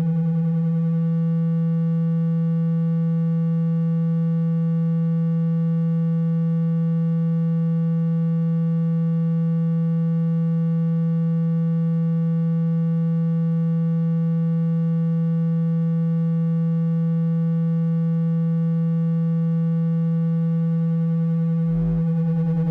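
Low, steady electronic buzzing tone played to vibrate water out of a wet phone speaker: one held pitch with a stack of overtones, with a brief low jolt near the end.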